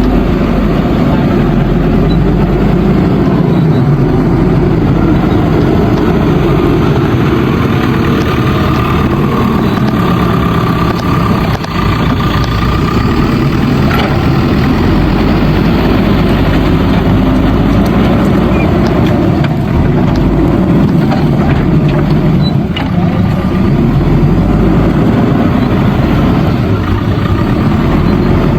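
JCB backhoe loader's diesel engine running steadily while the machine works.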